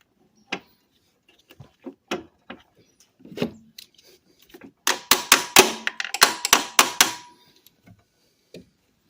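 Scattered light metal knocks and clicks, then a quick run of about nine sharp hammer blows, about four a second, on a stuck steel bolt being driven out of a golf cart engine mount, each ringing briefly.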